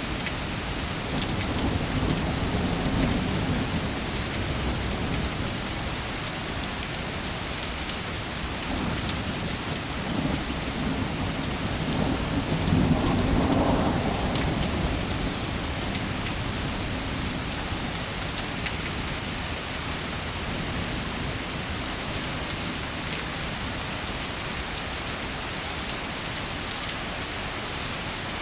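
Steady heavy rain falling, with low rolls of distant thunder, the loudest swelling up about halfway through.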